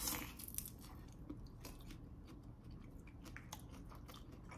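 A person biting into and chewing a crispy pan-fried rice paper egg wrap: faint crunches, most of them in the first half-second, then a few scattered ones.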